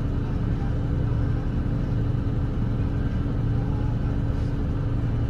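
Volvo B8RLE double-decker bus's diesel engine running steadily under way, heard from inside the cabin as an even low drone with tyre and road rumble.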